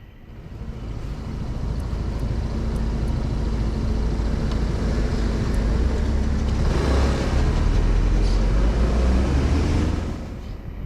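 Honda 125 cc motorcycle running on the road, engine and road noise building over the first couple of seconds and holding loud. It grows louder still in the second half, then drops off sharply about ten seconds in.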